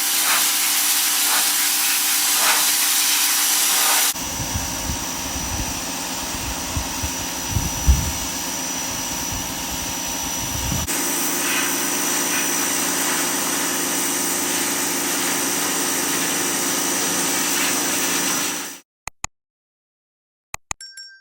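Pressure washer running and spraying: a steady, loud hiss of motor and water jet, heard in three clips that change abruptly, with a heavy rumble in the middle one. It cuts off near the end, leaving a few clicks.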